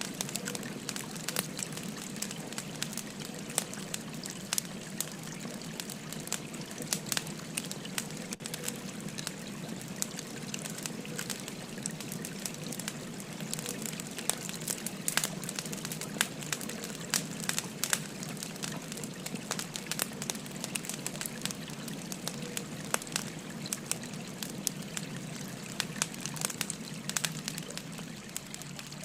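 Burning firewood crackling with frequent sharp, irregular pops over the steady rush of a flowing stream.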